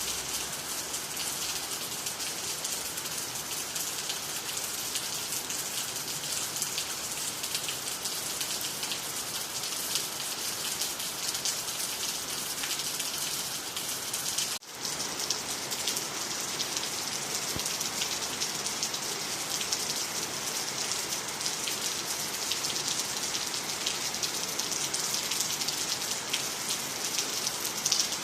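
Steady rain falling on water, trees and the ground, a dense even hiss of many drops. About halfway through the sound dips out for an instant and then comes straight back.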